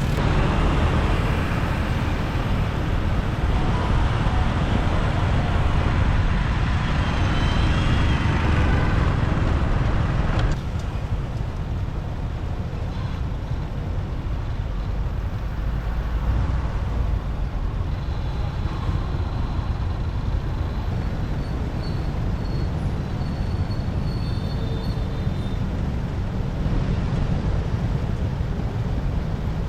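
Riding a motorbike through city traffic: steady wind and road noise with engine and traffic sounds. The upper part of the noise drops off abruptly about ten seconds in.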